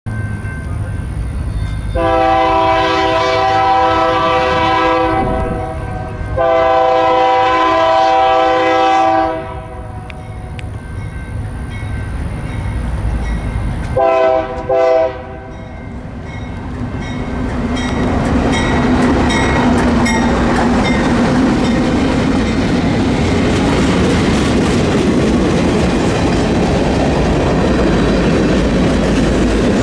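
Union Pacific freight train's locomotive air horn sounds two long chords and then two short ones. The lead diesel locomotives, a GE C44ACM and an EMD SD70ACe, then pass close by with a low engine drone. Tank cars and covered hoppers follow, their wheels clicking over the rail joints.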